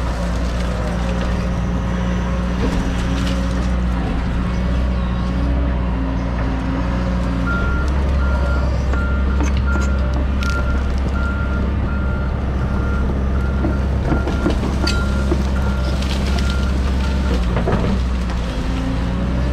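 John Deere 130G excavator's diesel engine running steadily, with a back-up alarm beeping in an even series of short, high beeps from about a third of the way in. The beeping pauses near the end and starts again.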